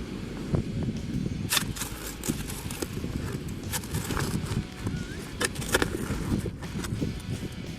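Footsteps crunching through snow, in sharp, irregular steps through the middle of the stretch, over a steady low rumble of wind on the microphone.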